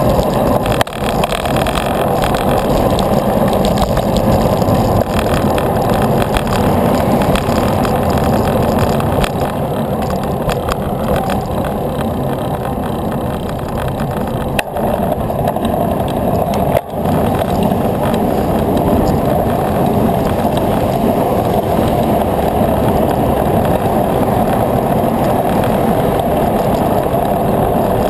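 Steady rushing noise of riding a bicycle on the road, the sound of wind and tyres, with three brief dips in loudness, one about a second in and two around the middle.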